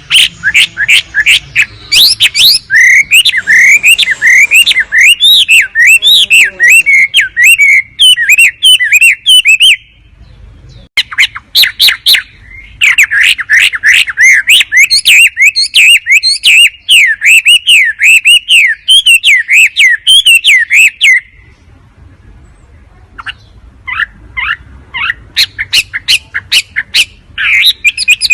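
Wambi bird song from a lure recording: long runs of rapid, sharp rising chirps, several a second, loud and close. The runs break off about ten seconds in and again past twenty seconds, picking up as scattered single notes before the fast chirping returns near the end.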